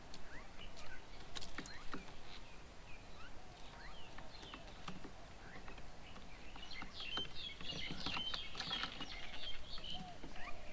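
Several small birds chirping and calling at a bird table, short rising and falling calls that grow busier about seven seconds in, with a few sharp clicks among them.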